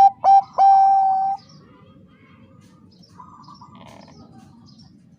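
Zebra dove (Bangkok perkutut) cooing: two short clipped notes, then one long held coo that ends about a second and a half in, closing the phrase. After that only faint background sound.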